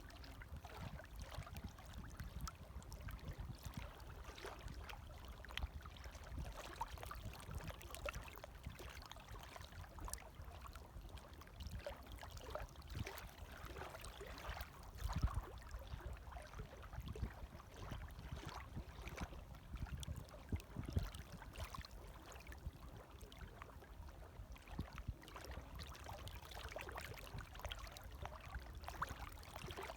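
Small, gentle waves lapping, with a low rumble under many small irregular splashes and trickles.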